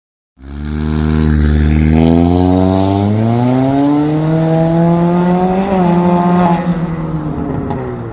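Honda Civic's turbocharged four-cylinder engine revving through a full-system valved aftermarket exhaust: the pitch climbs steadily for several seconds, holds briefly, then falls back near the end.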